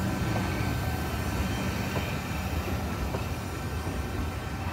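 Passenger coaches of a train rolling past close by: a steady rumble of steel wheels on the rails, with a few faint clicks.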